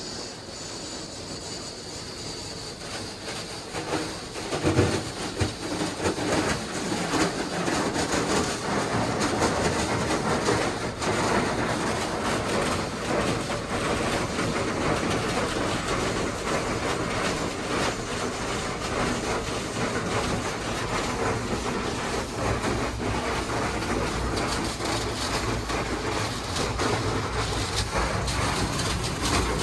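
Beauty 'Miyabi' gantry car wash working over the car, heard from inside the cabin: a dense, steady rush and clatter on the body that builds up about four seconds in and stays loud.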